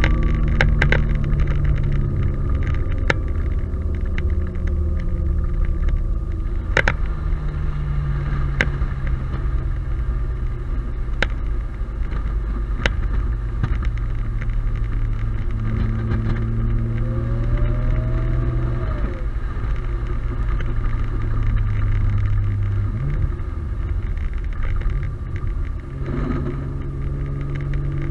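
Single-turbo Audi A4 3.0-litre engine heard from inside the cabin, a steady drone with road noise as the car drives along. The engine note drops a little about eight seconds in and rises briefly near the end.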